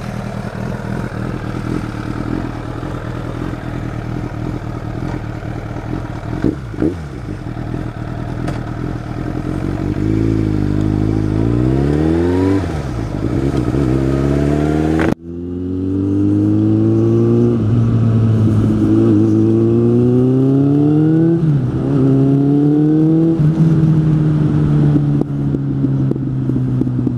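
Suzuki GSF 600 N's four-cylinder engine through an aftermarket exhaust, pulling away and accelerating through the gears. Its pitch rises under throttle and drops back at each shift. The engine note steadies for a while before the first hard pull.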